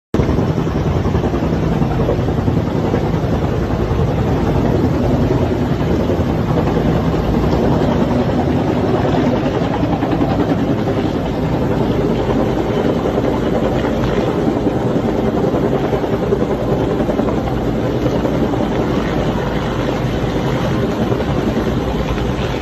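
Firefighting helicopter running steadily and loudly, its engine and rotor noise continuous with no break.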